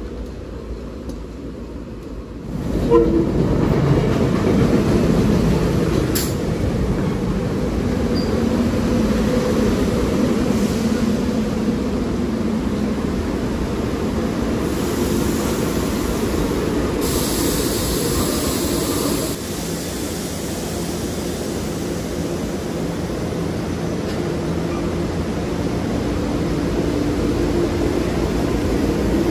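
SEPTA Silverliner IV electric multiple-unit commuter train running at a station platform, a steady mix of motor hum and rolling noise that gets louder about three seconds in. A hiss comes in partway through and lasts a few seconds.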